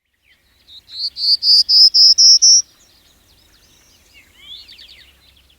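A songbird singing: a loud series of about eight short, clear, high notes, each a little higher than the last at about four a second, followed by softer twittering chirps and a brief trill.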